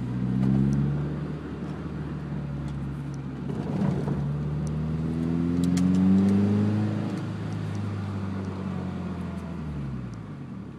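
2006 Subaru Impreza's flat-four engine through a TurboXS exhaust, accelerating hard in a 0-to-60 run. The note rises, drops back at a gear change, climbs again to its loudest about six seconds in, then levels off and falls away near the end.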